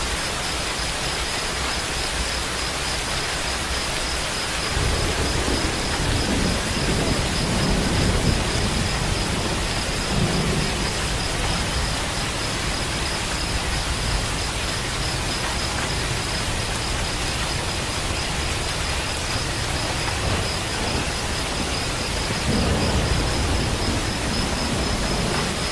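Steady rain falling with rolling thunder: a low rumble swells about five seconds in and rolls on for some six seconds, and another rumble comes near the end.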